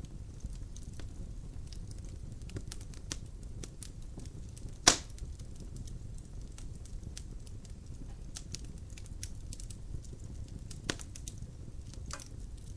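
Wood fire in a fireplace crackling, with irregular sharp snaps over a low steady rumble of the flames, and one loud pop about five seconds in.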